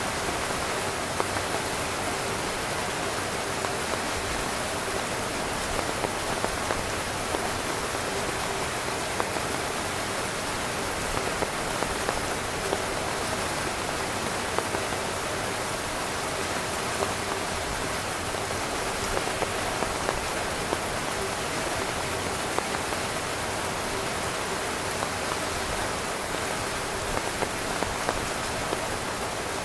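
Heavy rain drumming on a camping tent's fabric: a steady, even hiss of rain with individual drops pattering and ticking on the tent through it.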